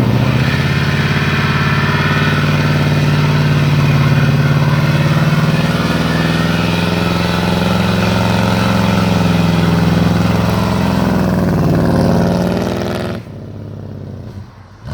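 Car engine running loud and steady, its pitch slowly rising and easing back, then dropping off suddenly near the end.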